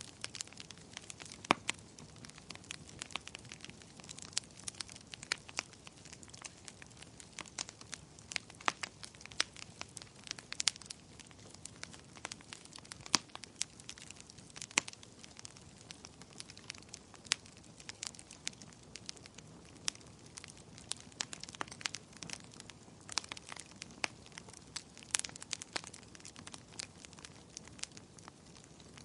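Wood fire crackling steadily, with frequent irregular sharp pops and snaps over a soft low hiss.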